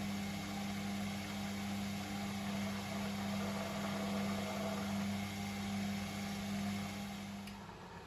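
Privileg Sensation 952 S top-loading washing machine running with a steady mechanical hum, which stops about seven and a half seconds in.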